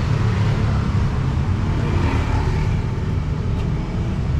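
Road traffic: a motor vehicle's engine running steadily close by, with the hiss of a busy road behind it.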